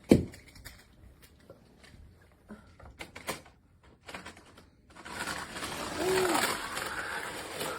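Plastic toddler race-track toy being played with: a sharp knock at the start, scattered light plastic clicks, then a steady rushing noise from about five seconds in.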